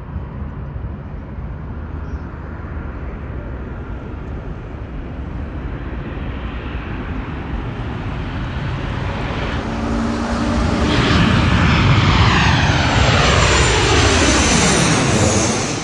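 Boeing 737-8 MAX's CFM LEAP-1B jet engines on landing approach, growing louder as it nears and loudest from about eleven seconds in. As it passes, several whining tones fall in pitch, and the sound drops off near the end.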